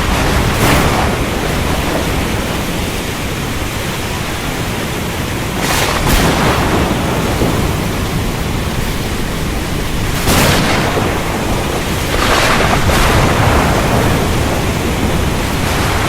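Thunderstorm: steady heavy rain with a continuous low rumble of thunder, and sharp cracks every few seconds, about six in all.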